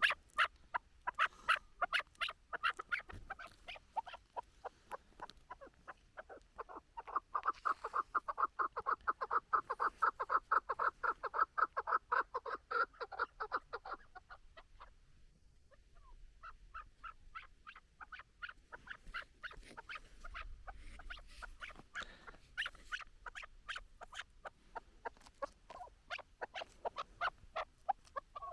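Chukar partridge calling: a long run of rapid, repeated clucking "chuk" notes, densest and loudest from about six to fourteen seconds in, a brief pause around fifteen seconds, then the notes start up again.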